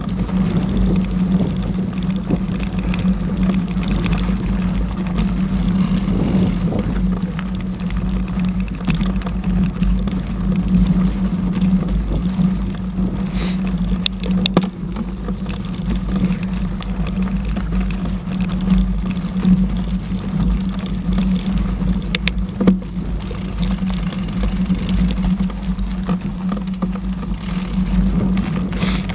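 Mountain bike riding along a trail: a steady rumble of tyres and frame vibration on the camera, with a few sharp clicks and rattles from the bike.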